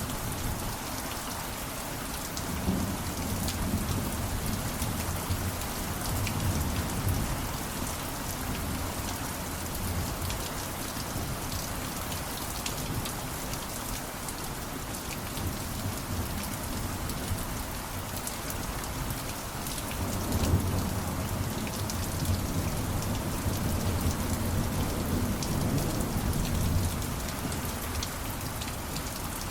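Steady heavy rain with drops pattering on a surface, and rolling low rumbles of distant thunder swelling twice, the second from about two-thirds of the way in.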